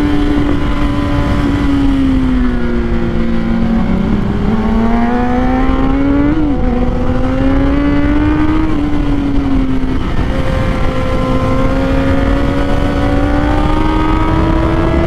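Kawasaki Z800 inline-four engine running at high revs, its pitch sagging and rising through the corners with a quick dip about six and a half seconds in. Steady wind rush underneath.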